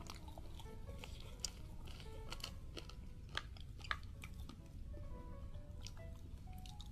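Faint chewing with a few sharp crunches, roughly a second apart, of crunchy cartilage being bitten, over soft background music.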